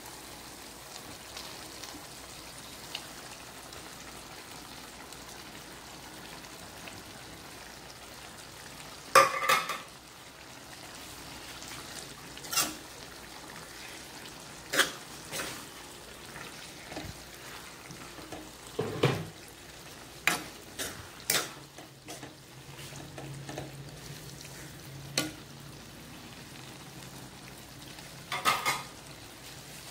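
Pork and bamboo shoots cooking in sauce in a wok with a steady sizzle, while a wooden spatula stirs, knocking and scraping against the pan about ten times.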